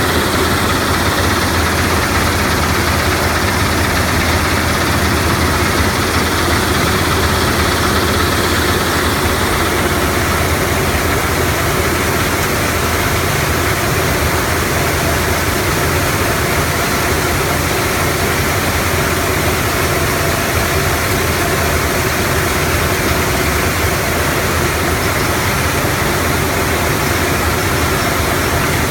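Gravel-crushing sand-making machinery running, a loud, steady mechanical drone with a strong low hum.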